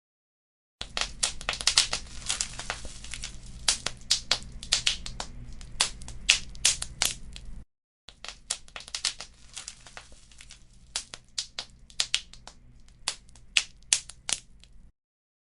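Wood fire crackling, with dense, irregular sharp pops and snaps over a low rumble. The sound cuts out completely for a moment at the start, briefly about halfway through, and again near the end.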